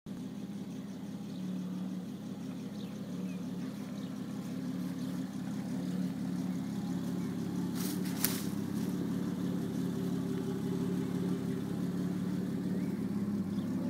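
1954 GMC 100 pickup's engine idling steadily, with a single sharp click a little past eight seconds in.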